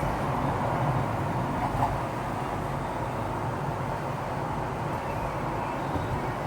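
A vehicle running past or carrying the recorder: a steady rumble with a faint, even hum above it and a small knock about two seconds in.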